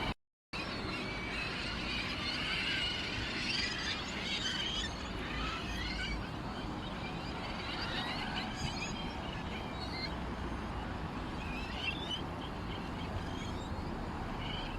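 Small birds chirping and twittering, many short overlapping calls over a steady low background hum. The sound drops out briefly just after the start.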